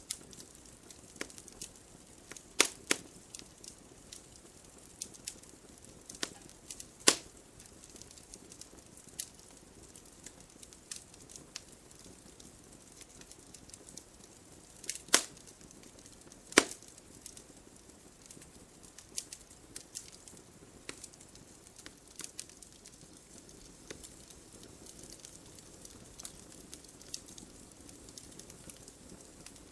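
Wood fire crackling: irregular sharp pops and snaps of burning logs over a faint steady hiss, with a few louder pops about 3, 7, 15 and 16 seconds in.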